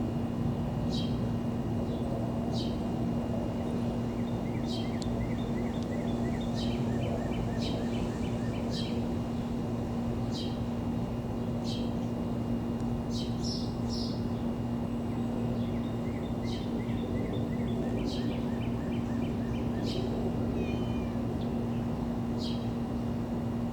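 Steady low rumble with a constant hum from a Boeing 777 airliner flying overhead. Birds chirp repeatedly over it, with short high downward calls every second or two and quick ticking trills.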